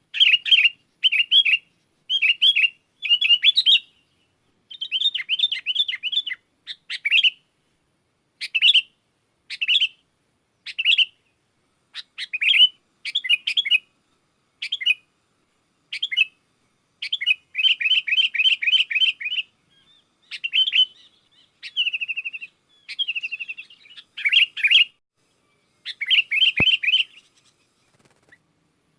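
Sooty-headed bulbul chattering loudly and persistently, in short bursts of rapid bubbly notes about a second apart with brief pauses between; a lure call meant to draw wild bulbuls.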